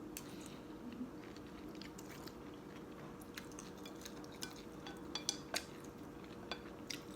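Faint scattered clicks of spoon and chopsticks against a bowl, with quiet chewing, while eating a bowl of noodle soup, over a steady low hum.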